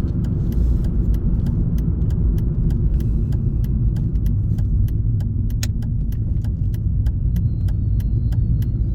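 Car cabin road noise while driving: a steady low rumble, with many light clicks scattered through it.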